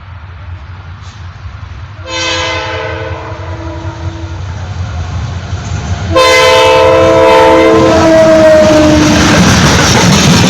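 EMD diesel freight locomotive sounding its multi-note air horn twice: a blast about two seconds in, then a longer, louder one from about six seconds. Engine and wheel noise rise to a loud steady rumble as the train passes.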